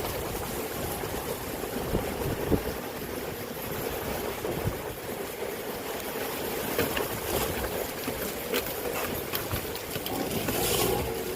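Storm wind buffeting the microphone with a steady rushing hiss and uneven low rumble, while riding an electric unicycle through hurricane weather.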